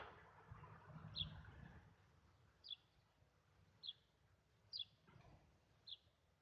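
A small bird giving short, high, falling chirps, five in all, roughly one a second, against near silence; a faint low rumble dies away in the first two seconds.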